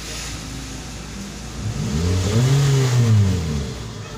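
Toyota Vios car engine running, revved once about halfway through, with the pitch climbing and dropping back to idle.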